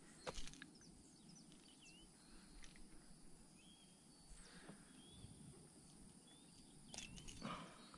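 Near silence with faint, short bird chirps recurring every second or so, a soft knock near the start and another about seven seconds in.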